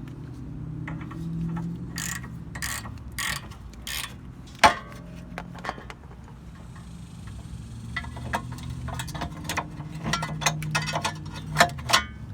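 Hand ratchet wrench clicking in short bursts as it works a suspension fastener, with metal tools knocking against the car. A single sharp knock comes about four and a half seconds in.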